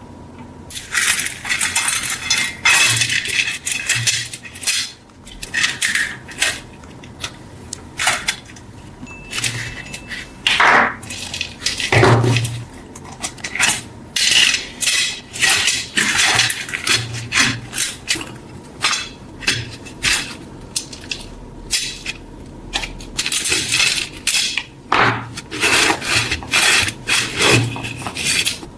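Hand tool work on cast iron corn-sheller parts: irregular scraping and rubbing strokes of varying length, with metal clinks mixed in.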